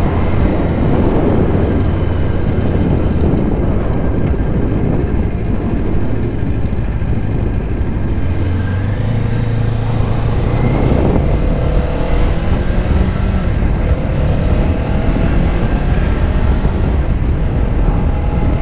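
2024 Kawasaki Ninja 500's parallel-twin engine running steadily under way. Its note drops and then rises again about halfway through.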